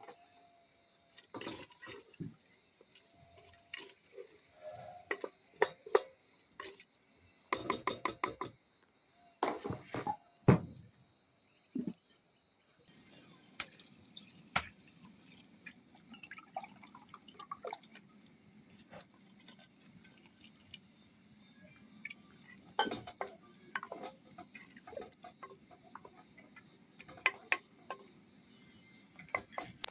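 Clinks and knocks of pots, dishes and utensils being handled, with water or liquid sounds and a quick rattle of knocks about eight seconds in. A steady low rushing sound comes in about halfway, and insects chirp steadily in the background.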